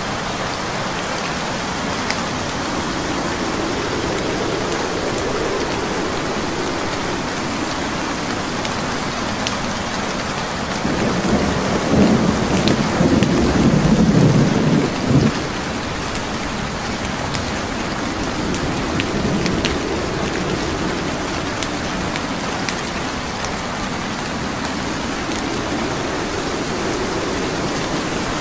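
Steady rain with scattered sharp crackles from a burning wood fire. A louder low rumble swells about eleven seconds in and dies away by about fifteen seconds.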